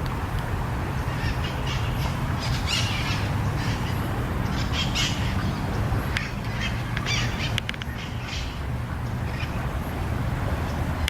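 Bird calls outdoors: a series of short, harsh calls every second or two, over a steady low rumble.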